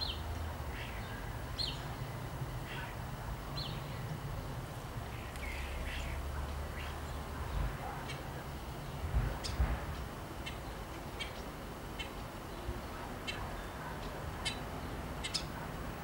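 Songbird calling near a birdhouse in short, irregular chirps and clicks, a few sliding down in pitch, scattered through the whole stretch. A steady low rumble runs underneath, with a couple of low thumps about nine seconds in.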